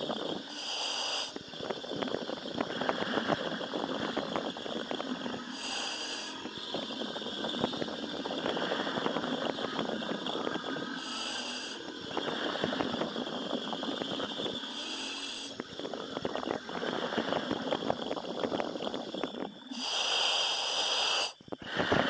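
Commercial diver breathing in a helmet: a short hiss of the demand valve on each breath in, about every five seconds, with the bubbling rush of exhaled air in between.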